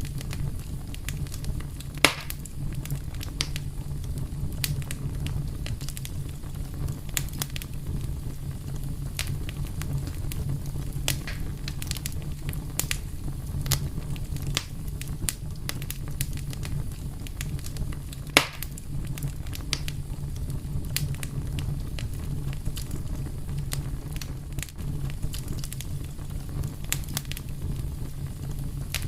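Fire crackling, with frequent small pops over a steady low rumble, and two sharper, louder pops: one about two seconds in and one about eighteen seconds in.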